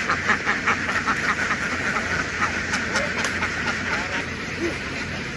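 A large flock of domestic ducks quacking together in a dense chorus of rapid calls that thins out partway through. A steady low engine hum runs underneath.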